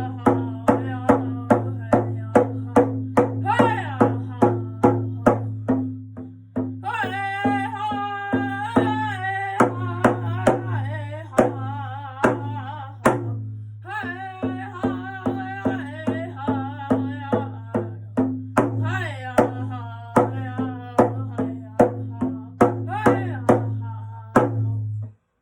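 Indigenous song: a drum struck in a fast, steady beat of about three strokes a second, with singing in high, wavering phrases over it. The song stops abruptly near the end.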